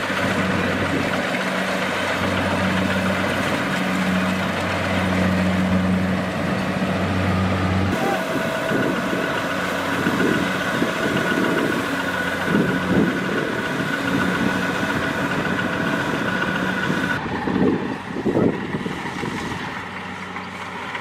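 Kubota DC-70 Plus combine harvester running with a steady low engine drone. About eight seconds in the sound changes abruptly to a steady high whine with irregular knocks, changing again near the end.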